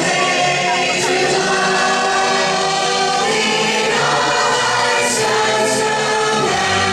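A choir singing in harmony, with long held notes.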